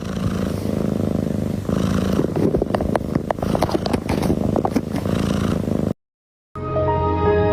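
Cat purring close to the microphone, a steady low rumble with scattered clicks, cut off abruptly about six seconds in. Music starts half a second later.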